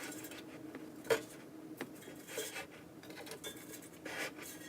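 Light kitchen handling sounds: dishes and utensils clinking and knocking a few times, with short pauses between.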